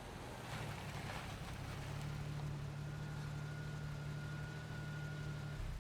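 Car engine running with a steady low hum and a thin high whine over it, cutting off suddenly near the end.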